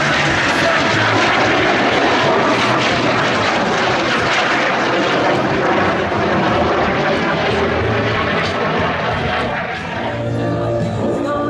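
Aircraft flying past, a loud steady rush of engine noise that eases off near the end as music comes in.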